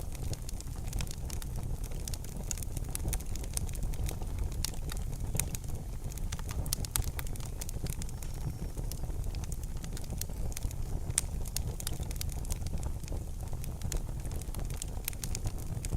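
Wood fire crackling in a fireplace: frequent sharp pops and snaps scattered irregularly over a steady low rumble of burning.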